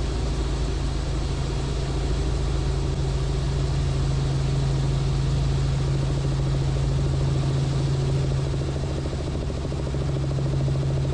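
Robinson R44 helicopter in cruise flight: a steady, unchanging drone of engine and rotor with a strong low hum.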